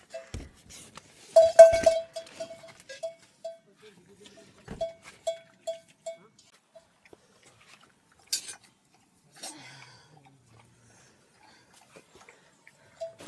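Goats in the village: a goat call about a second and a half in, then a run of short ringing tones at one pitch, about two to three a second, that stop around seven seconds in. Scattered clicks and rustles follow.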